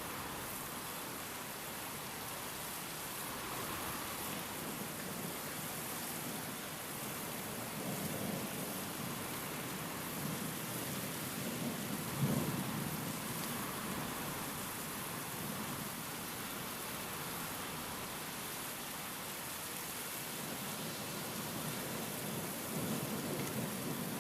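Steady heavy rain with thunder rumbling low in the middle, one stronger roll of thunder about halfway through.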